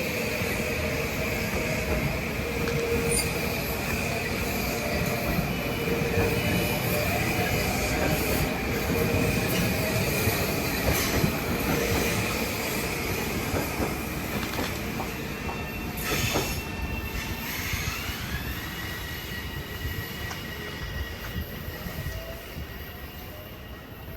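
Metro-North passenger train rolling through a station, its wheels squealing steadily on the rail over a constant rumble and some clatter. About three-quarters of the way through, a rising whine sets in and holds, and the sound fades toward the end.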